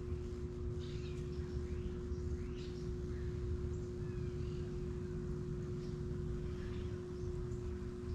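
Small birds chirping and calling in short, scattered notes over a steady low hum and rumble.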